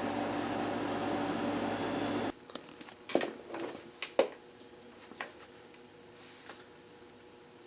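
Regner gas burner running steadily under a model steam boiler, a hiss with a low hum. It cuts off suddenly about two seconds in, followed by a few light knocks and clicks.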